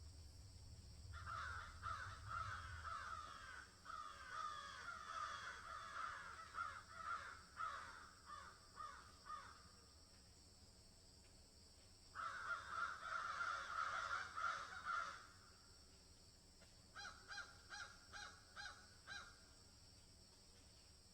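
Birds calling in bursts: several seconds of dense, overlapping calls, another burst a few seconds later, then a string of about eight short, separate calls near the end, over a faint steady hiss.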